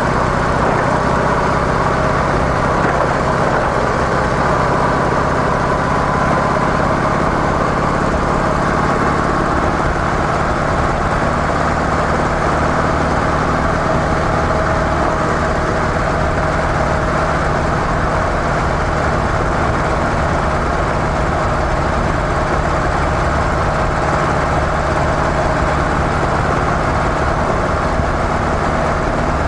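Harley-Davidson CVO Softail's V-twin engine running steadily through its stock mufflers, its level even throughout with no revving or gear changes.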